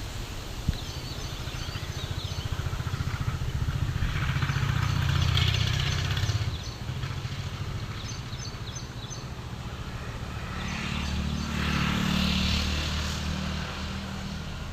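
A motor vehicle engine running, its low rumble swelling twice as it grows louder and fades, with faint bird chirps above it.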